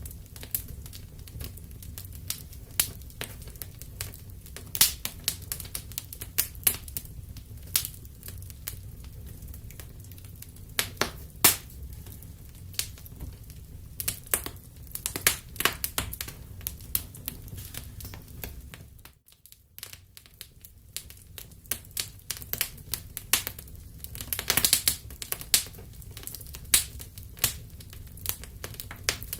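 Wood fire crackling and popping: irregular sharp snaps over a steady low rumble of the flames. The sound briefly drops away about two-thirds of the way through, then the crackling resumes.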